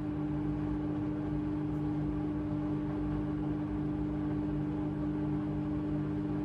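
AEG LR8FL160EX front-loading washing machine running, its drum motor giving a steady hum with one clear held tone that does not change.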